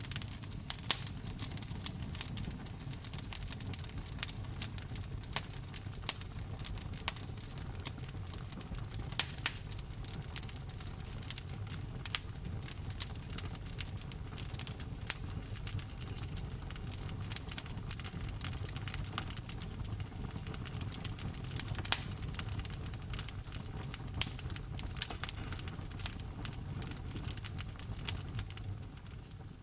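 Wood fire burning in a fireplace, crackling with frequent sharp pops over a low steady rumble, starting to fade out near the end.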